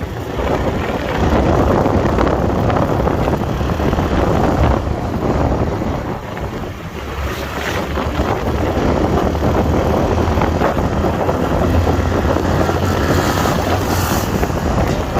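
Wind buffeting the microphone while riding a motorcycle, a loud steady roar with the motorcycle's low engine drone underneath.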